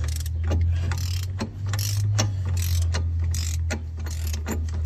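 Impact wrench hammering on the 36 mm front axle nut to break it loose: a steady low drone with many sharp knocks over it. The drone rises slightly in pitch about two seconds in.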